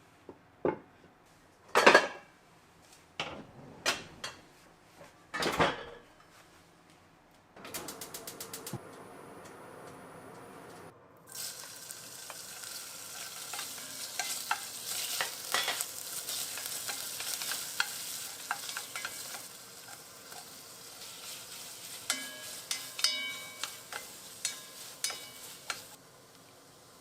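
Food sizzling and crackling in a hot frying pan while a utensil stirs it, clinking against the pan several times near the end. Before that come a few knocks, then a quick run of clicks and a brief steady hiss.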